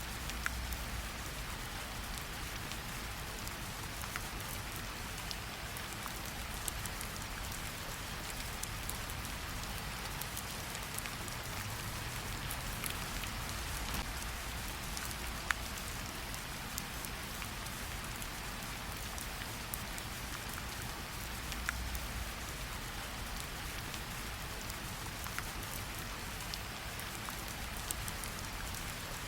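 Steady light rain pattering on tree leaves, with scattered louder single drops ticking through the even hiss.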